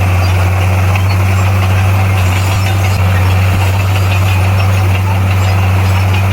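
Komatsu bulldozer's diesel engine running at a steady drone, with no change in revs.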